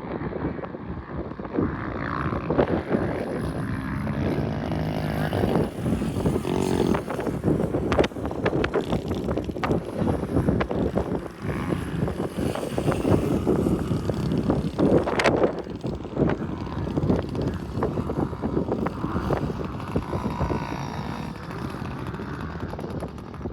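Small pit bike engine running and revving as it is ridden, with a few sharp knocks along the way.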